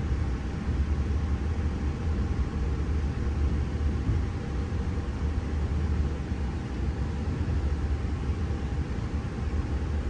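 V set double-deck electric intercity train heard from on board while running, a steady low rumble with a faint steady whine above it.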